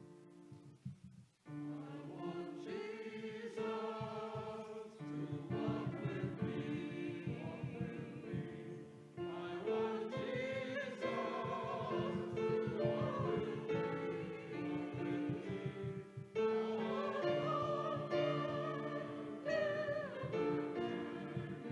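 Church music: voices singing over keyboard accompaniment. It starts after a brief pause about a second and a half in and goes on in phrases, with breaks near nine and sixteen seconds.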